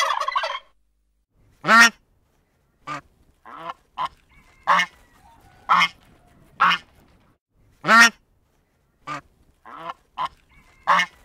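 A turkey gobble at the very start, cut off within the first second, then domestic geese honking: about a dozen short honks at uneven intervals, the loudest about 2 s and 8 s in.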